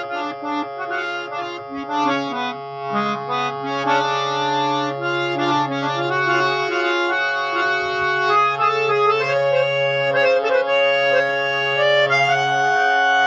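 Harmonium with Paris reeds, about sixty years old, being played: a melody of reedy notes over a steady held low drone note. The drone drops out briefly about ten seconds in.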